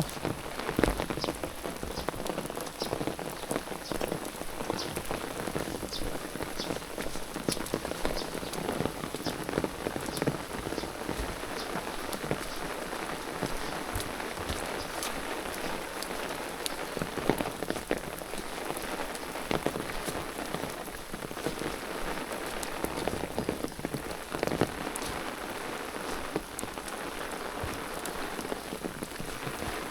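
Steady rain falling, an even hiss dotted with many single drops ticking.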